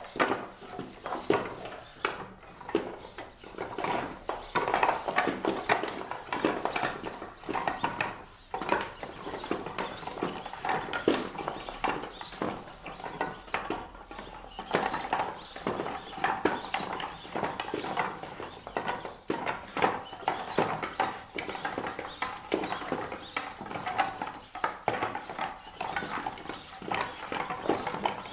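Legged search-and-rescue contest robot walking: its feet tap and clatter on the arena floor in a rapid, irregular patter, with a faint steady servo whine in the second half.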